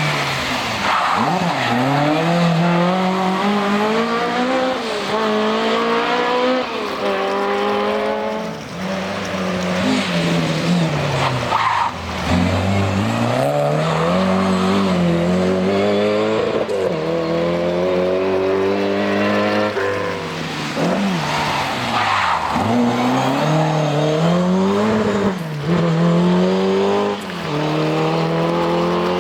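Historic rally car engine at full load, its pitch climbing hard and then falling back again and again as it works through the gears and lifts for corners.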